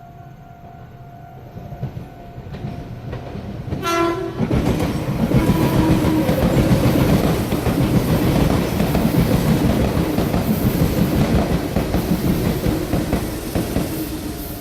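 Meitetsu rapid limited express train sounding its horn (its musical horn) about four seconds in as it arrives at a level crossing, then a loud, steady rumble and wheel clatter as the cars pass. A level-crossing warning signal rings steadily before the horn and again near the end.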